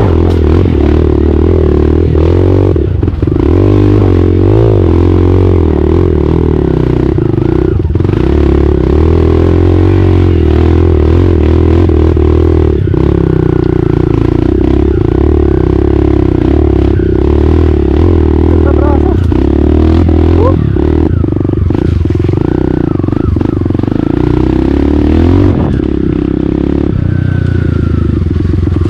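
Open-piped trail motorcycle engine running loud at steady revs, rising and dipping slightly as the rider works the throttle over rough ground. Frequent clatters and knocks from the bike jolting over the rocky trail.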